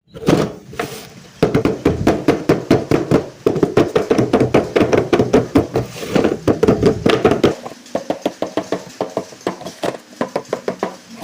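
Hands handling and tapping the toy RC car's packaging: a fast run of knocks and taps, several a second, that thins out into sparser, quieter clicks after about seven seconds.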